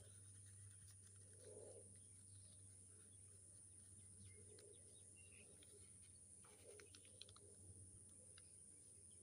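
Near silence with faint scattered rustles and ticks of paper being handled and folded, over a steady low hum.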